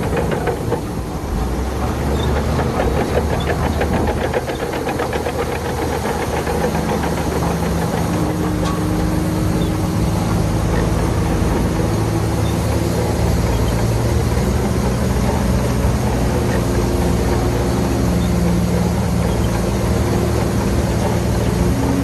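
Heavy earthmoving machine's diesel engine running steadily, its note shifting a few times as the load changes.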